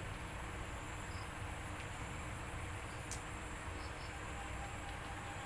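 Faint steady background noise with a few short, high insect-like chirps in twos and threes, and one sharp click about three seconds in.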